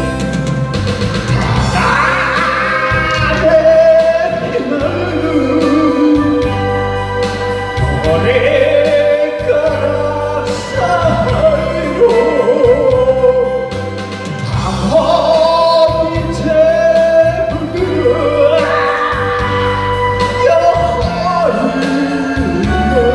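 A man singing a trot song over a karaoke backing track with a steady beat.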